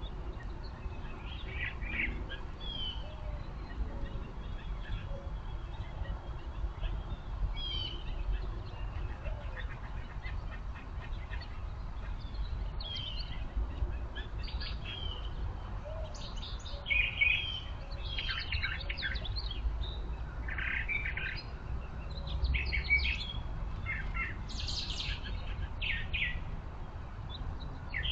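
Small birds chirping in many short, quick calls, busier in the second half, over a steady low rumble.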